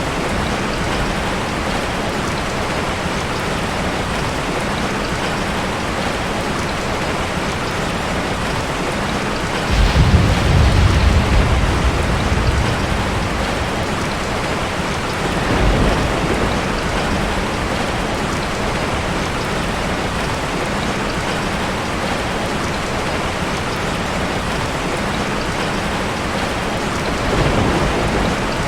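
Heavy rain falling steadily, with a sudden clap of thunder rumbling for a few seconds about ten seconds in and two fainter rolls of thunder later, around the middle and near the end.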